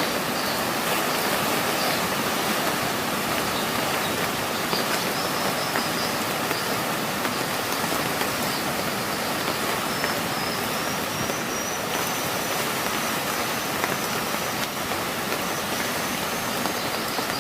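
Heavy rain and rushing river water, a steady dense rushing noise. A faint thin high tone comes in about five seconds in and steps up in pitch near the middle.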